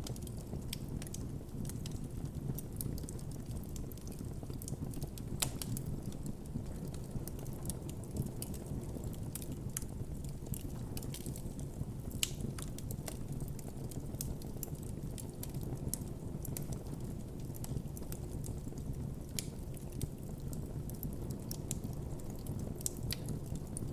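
Wood campfire burning with a steady low rumble of flames and frequent irregular sharp crackles and pops.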